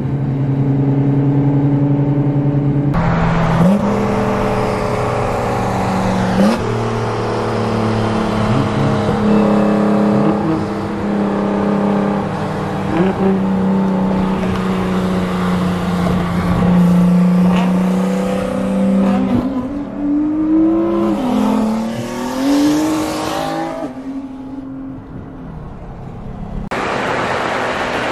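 Car engines at full throttle in a street roll race, heard from inside a car. The engine pitch climbs and drops back at each gear change, then eases off near the end.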